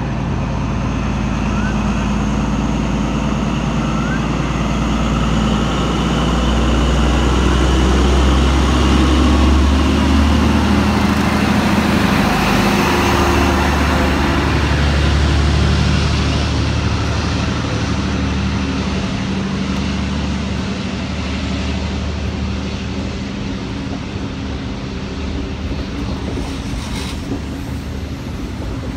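NSW TrainLink XPT diesel-electric train departing: the diesel power car's steady engine hum and the carriages rolling past on the rails. It grows louder to a peak about halfway through, then eases off.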